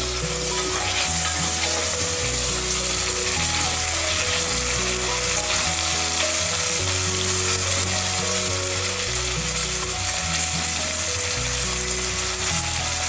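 Sliced onions and chopped tomato sizzling steadily in hot oil in an open stainless-steel pressure cooker while a spatula stirs them.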